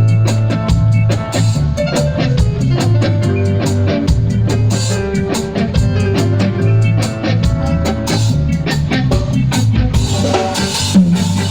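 Live band jamming: a drum kit played busily over bass and electric guitar, with no singing.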